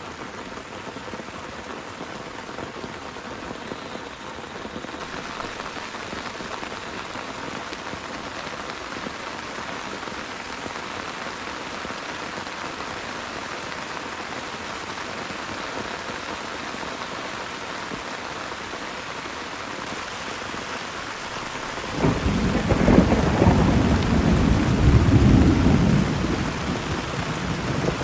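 Heavy rain falling steadily, then a loud rumble of thunder breaks in suddenly near the end and carries on over the rain.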